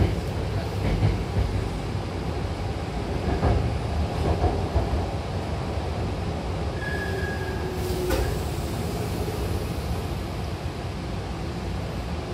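Hankyu Takarazuka Line train running between stations, heard inside the car by the doors: a steady rumble of wheels on the rails with occasional knocks at rail joints, and a brief high whine about seven seconds in.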